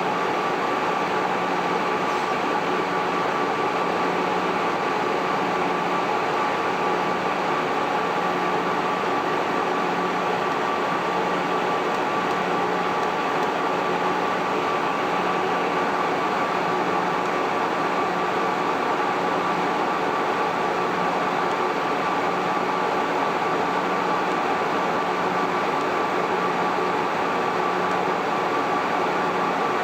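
MJ Research PTC-225 Tetrad Peltier thermal cycler running, its cooling fans giving a steady whir with a thin constant whine and a low hum that swells and fades in an even slow rhythm.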